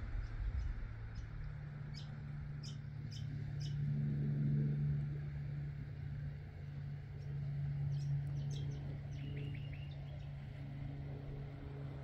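Birds chirping in short calls, with a quick run of four chirps about nine seconds in, over a steady low engine hum that swells about four seconds in.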